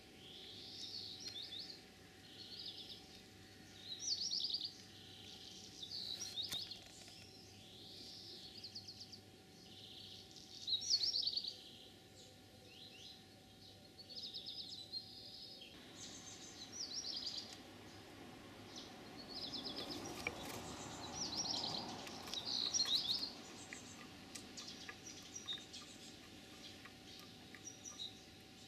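Small birds chirping over and over, short high chirps coming every second or so, over a faint steady outdoor background.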